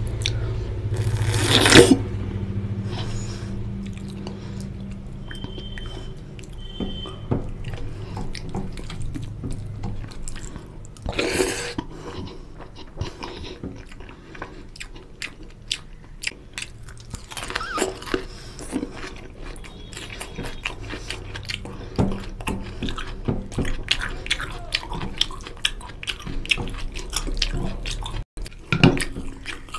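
Wet chewing and lip-smacking of hand-eaten rice and mutton curry, heard as many small sharp clicks, with fingers working the gravy-soaked rice on the plate. Louder smacks come about two seconds in and again around eleven seconds.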